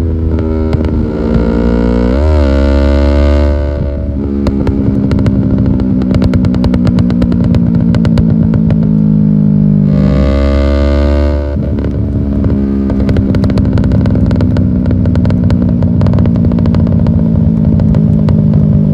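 Yamaha R6 inline-four motorcycle engine running loud through an aftermarket exhaust, with a quick throttle blip about two seconds in and a rapidly pulsing exhaust note that shifts in pitch after that.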